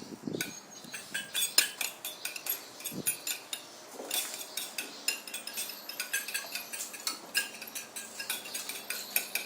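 Small utensils clinking and tapping against a dish, with several short, sharp clicks a second and no steady rhythm.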